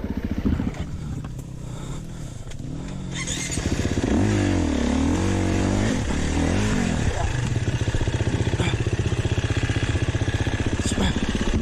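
Four-stroke single-cylinder enduro dirt bike engine, its revs falling and rising a few seconds in, then running steadily under throttle.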